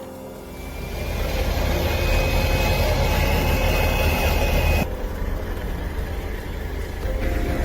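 Heavy vehicle engine running with a steady deep rumble and a thin high whine over it; the sound changes abruptly about five seconds in.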